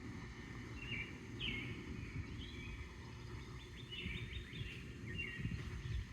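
Birds chirping in short repeated calls, over a steady low rumble of wind on the microphone.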